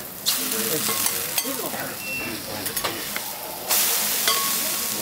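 Okonomiyaki frying on a steel teppan griddle: a steady sizzle, with metal spatulas tapping and scraping on the hot plate. The sizzle grows louder about three and a half seconds in as the pancake is worked with the spatulas.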